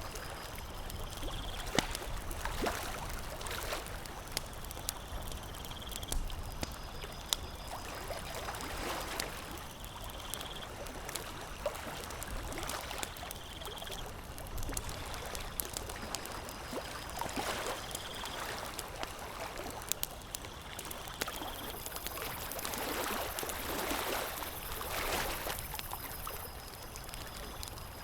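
Campfire crackling, with scattered sharp pops over a steady rushing noise that swells a few times, most strongly near the end.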